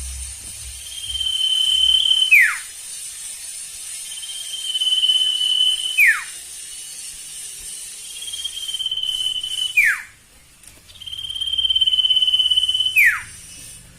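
A sirtu bird calling in a full, excited state: four times, a long steady high whistle that ends in a quick downward slide, about every four seconds. A faint steady high-pitched tone runs underneath.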